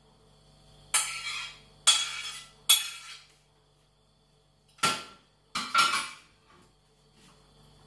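Metal kitchen utensil clinking and scraping against dishes and a pan while food is served into a dish: six short sharp strokes in two groups of three.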